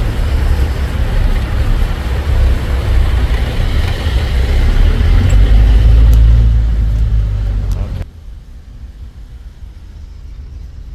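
Ride noise from a moving motor vehicle: engine and road noise under a heavy, low wind rumble on the microphone. It grows loudest about six seconds in, then drops off abruptly about eight seconds in to a much quieter steady hum.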